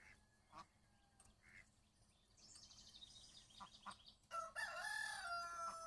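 A rooster crows once, starting about four seconds in: a wavering opening, then a long held note that sinks slightly. Just before it comes a brief, rapid, high chirping of small birds.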